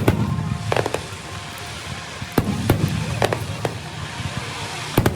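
Aerial fireworks going off in an irregular series of sharp bangs, about ten in five seconds, with music playing underneath.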